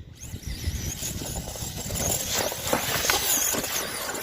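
Radio-controlled FTX Outback Fury mud truck with a 3660kv 3S brushless motor driven flat out through mud: a high-pitched electric motor whine that rises and falls with the throttle, over drivetrain and tyre noise.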